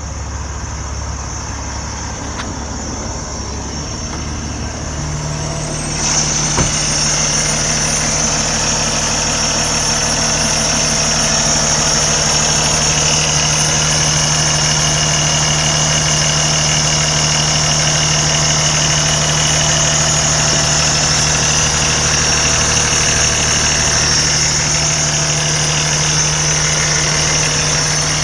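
Cummins ISX inline-six diesel engine of a Kenworth T680 tractor idling steadily just after start-up. About six seconds in, it becomes louder, with a steady high hiss and whine over the engine.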